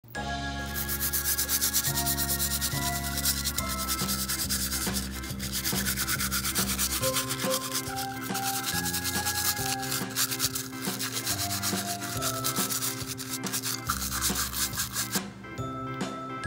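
Rapid rasping rubbing of a soapy scrubber on a small die-cast toy car, close up, which stops near the end. Background music with a melody and bass plays underneath.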